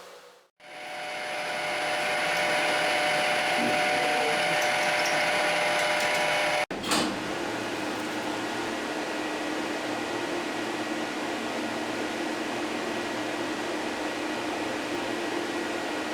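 Power tool motor running steadily with a whine. It starts and spins up about half a second in, and a sudden cut near seven seconds leads to a second steady run of the machine.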